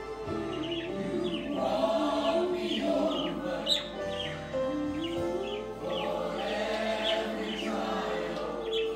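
Gospel choir music playing, with a pet bird chirping along over it in many short, high chirps throughout.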